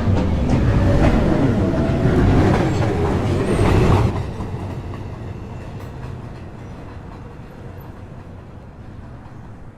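New York City subway train moving through the station, with wheel clatter and the gliding whine of its motors. About four seconds in the sound drops suddenly and fades to a low rumble.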